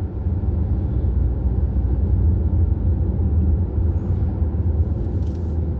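Steady engine drone and road noise from a vehicle cruising along the highway, a low even rumble.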